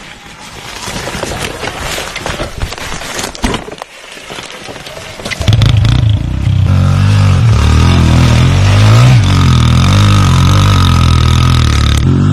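Irregular knocks and clatter, then about halfway through a pit bike's small single-cylinder four-stroke engine starts and runs loudly with a slightly wavering pitch.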